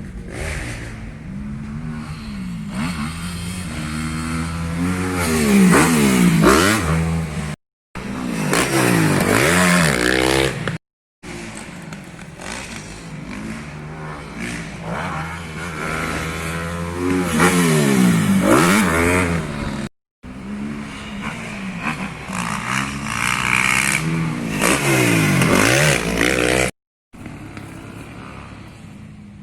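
Motocross dirt bikes revving hard on the track, the engine pitch rising and falling sharply as bikes pass by several times. The sound stops dead for a moment four times, at edits.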